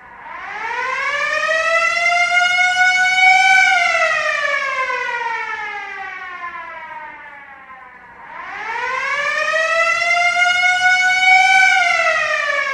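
A siren wailing in two slow cycles: each rises for about three seconds, then sinks slowly. It starts climbing again about eight seconds in and is cut off abruptly near the end.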